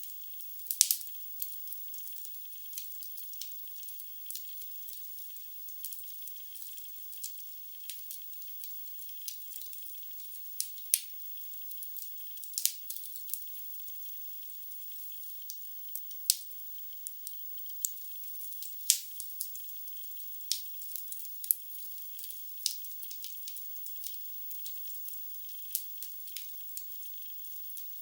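Wood logs burning in a fireplace, crackling with irregular sharp pops over a faint steady hiss. The crackle is light and high, with no low rumble.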